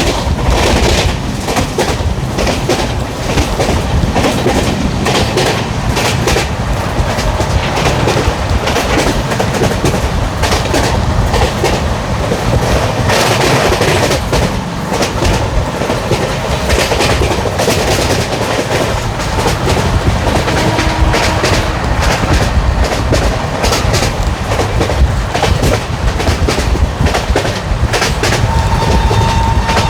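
LHB passenger coaches running at speed: a steady rumble of wheels on rails, with the wheels clicking repeatedly over rail joints.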